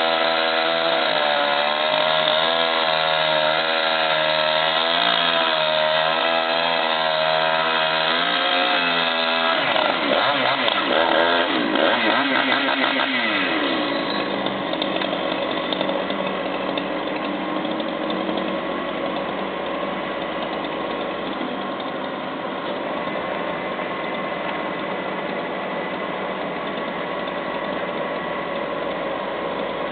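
Chainsaw running at high speed under load, its pitch wavering as it cuts, for about nine seconds; then the pitch falls and swings up and down. After that a steadier engine runs on, a little quieter.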